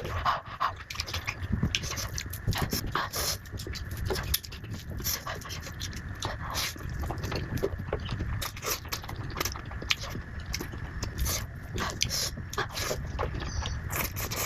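Close-miked eating sounds: a person chewing food, with many short, wet mouth clicks and smacks.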